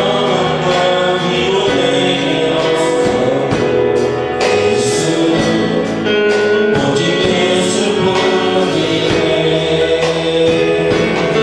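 Congregational praise music: a church worship band playing with group singing.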